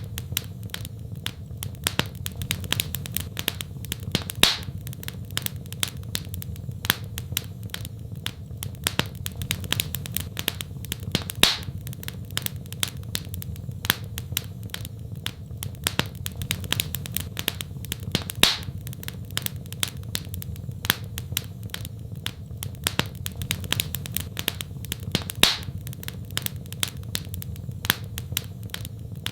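Wood fire in a fireplace crackling: a constant patter of small snaps over a low steady rumble of flame, with a louder pop about every seven seconds.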